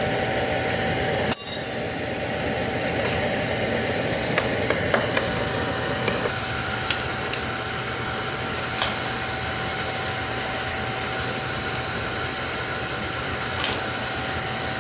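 Beckett oil burner running with a steady high-pitched whine, a second, higher tone joining about six seconds in, which the technician suspects comes from the burner's fuel pump or a failing motor. A few light clicks of tools over it.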